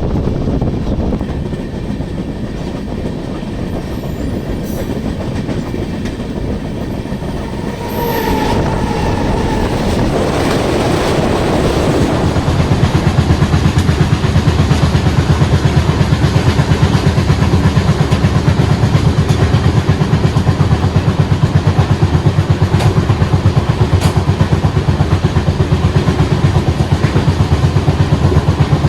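Passenger train hauled by a WAP-7 electric locomotive running along the track, its wheels rumbling on the rails. A short high-pitched tone comes about eight seconds in. From about twelve seconds on the sound turns into a louder, fast, regular clickety-clack.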